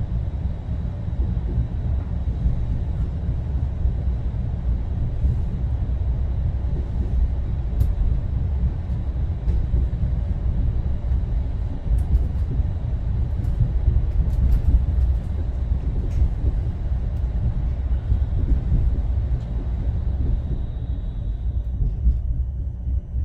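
Mugunghwa-ho passenger train running along the track, heard inside the carriage: a steady low rumble with a few faint clicks.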